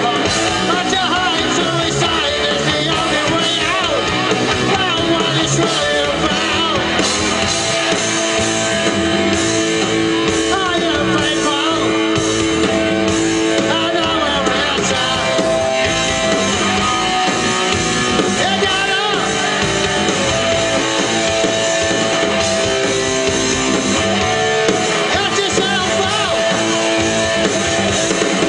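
Live rock band playing loud, with electric guitar lead lines, some notes held and bent, over bass and drums.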